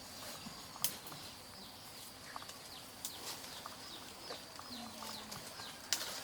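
Small birds chirping over and over in short, high, falling peeps. Two sharp knocks cut through, one about a second in and one near the end.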